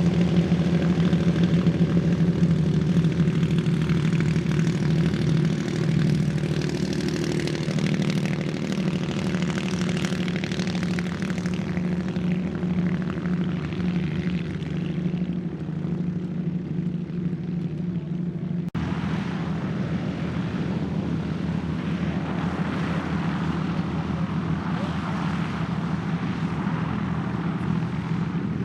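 Beechcraft Twin Bonanza's twin piston engines running steadily with propellers turning, a low even drone with some higher hiss. An abrupt cut about two thirds of the way through, after which the same kind of engine drone carries on.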